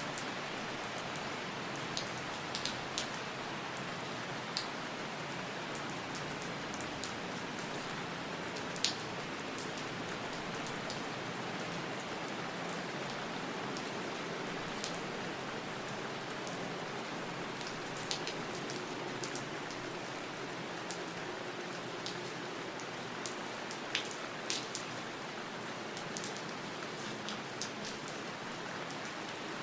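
Steady rain falling, a continuous even hiss with individual drops ticking sharply here and there on a hard surface.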